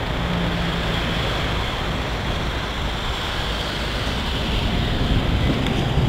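Steady rumble of a train rolling away down the track, its wheels running on the rails.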